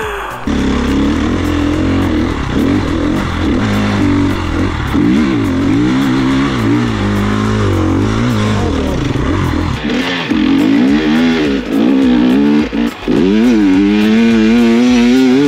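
Four-stroke KTM enduro motorcycle engine running and being revved up and down repeatedly, its pitch rising and falling, with several rising revs near the end.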